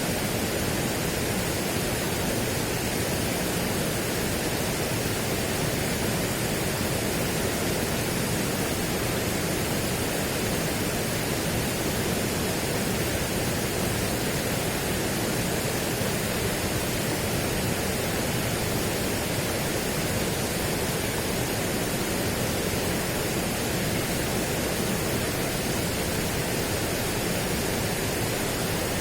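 Steady, unchanging rushing noise spread evenly from low to high pitch, with no distinct events.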